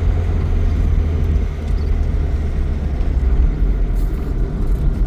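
Loud, steady low rumble that sets in suddenly just before and carries on without a break.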